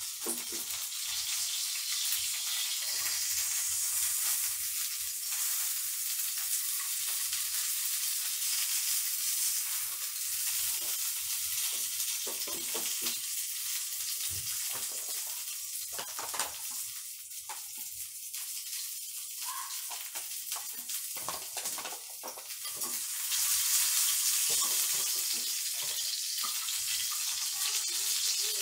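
Deboned chicken thigh sizzling as it fries in a pan on a gas stove, with scattered light clicks of a utensil against the pan. The sizzle grows louder about three-quarters of the way through.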